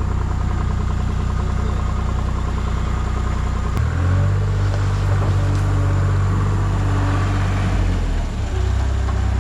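Skid steer engine running steadily, then revving up about four seconds in and holding the higher speed for about four seconds before dropping back to its earlier pace.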